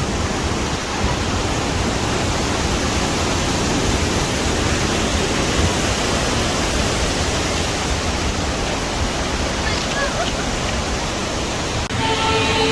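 Dudhsagar waterfall's steady rush of falling water, an even roar with no rhythm, which breaks off near the end as music starts.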